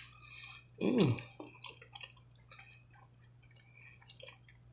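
Close-up eating sounds of a person chewing oxtail meat: small wet smacks and clicks of the mouth, with a short hummed 'mm' about a second in and a sharp click at the very start.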